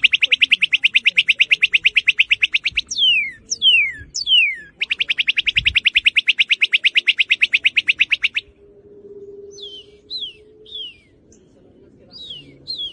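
Northern cardinal singing: loud rapid trills of repeated notes broken by clear downslurred whistles. The song thins to softer, scattered downslurred notes after the second trill, a little past the middle.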